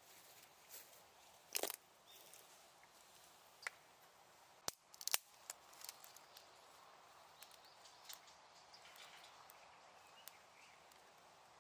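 Small wood bonfire crackling: scattered sharp pops and ticks over a faint steady hiss, with the loudest pops about a second and a half in and a cluster around five seconds in.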